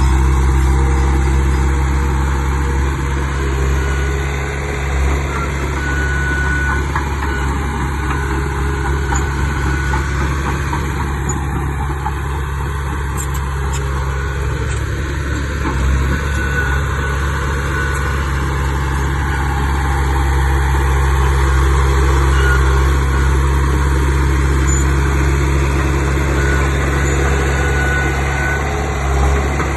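Heavy diesel engine of earthmoving machinery running steadily with a deep low hum, its level easing off slightly and then picking up again.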